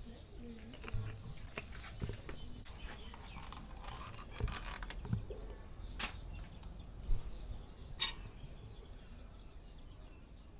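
Scattered light clicks and knocks of a sauce bottle, a plastic sauce cup and a spoon being handled over metal steam-table pans, with a few sharper knocks in the second half.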